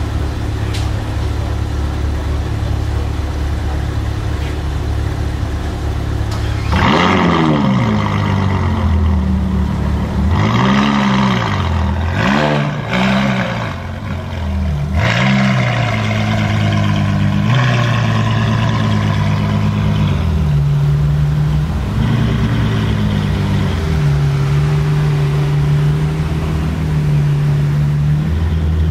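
Ferrari F12 Berlinetta's naturally aspirated V12 idling, then revved hard from about seven seconds in: a string of sharp blips that rise and fall, one held briefly, before it settles back to a steady low run near the end.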